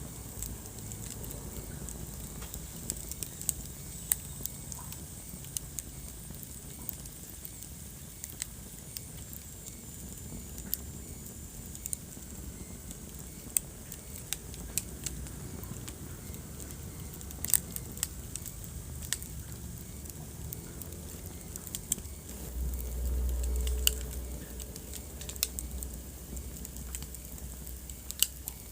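Wood fire burning in a fireplace: a steady low hiss with scattered sharp crackles and pops, and a brief low rumble about two-thirds of the way through.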